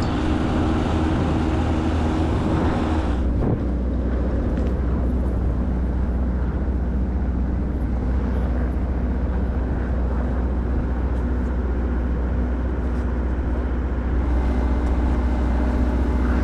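A vehicle engine running steadily, with heavy wind rumbling on the microphone.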